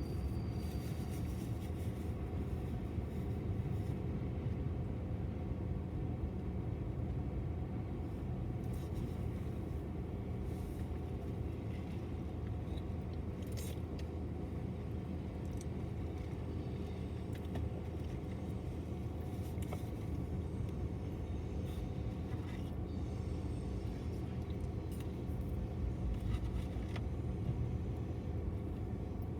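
BNSF intermodal freight train rolling past: a steady, unbroken rumble with a few faint clicks.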